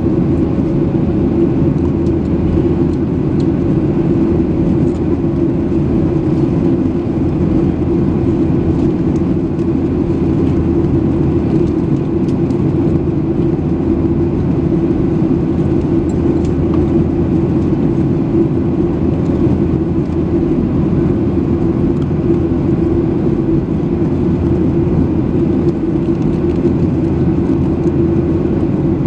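Steady roar of a jet airliner's engines and airflow heard inside the passenger cabin, with a low hum and a faint steady tone, while the aircraft climbs after takeoff.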